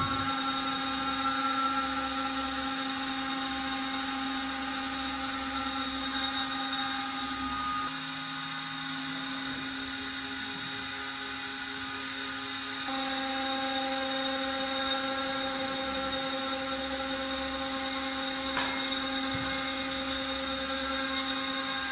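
CNC router spindle running with a router bit cutting wood: a steady whine of several tones, which shifts and gets a little louder about two-thirds of the way through.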